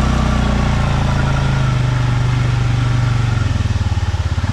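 Stels Leopard 650 ATV engine running steadily at low revs. Near the end its note changes to a slower, pulsing beat.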